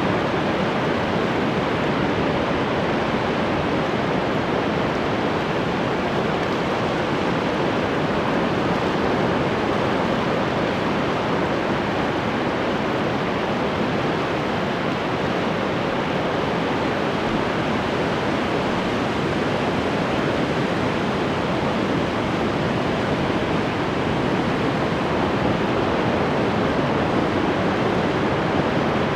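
Ocean surf washing onto the shore in a steady, unbroken hiss of water, with no single wave crash standing out.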